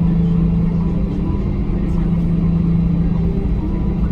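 Steady cabin drone inside an Airbus A321 with its engines running: an even low hum with rumble beneath, holding level without rising or falling.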